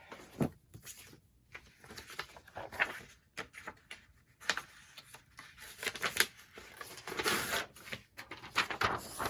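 A book's text block being handled: irregular paper rustling and page riffling with small knocks and taps.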